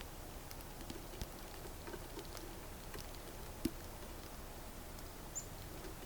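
Faint, scattered small clicks and ticks of a red squirrel feeding at a bird feeder, with one sharper click about three and a half seconds in and a brief high chip near the end.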